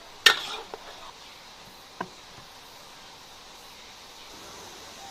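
Cookware and utensils knocking while a braised fish is dished out of the wok: one loud sharp knock about a third of a second in with a brief rattle after it, then a smaller knock about two seconds in, over a faint steady hiss.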